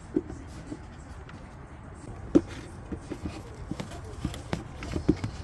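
Irregular light knocks and clicks of hands working around the car's plastic cowl panel and the debris under it, the loudest about two and a half seconds in.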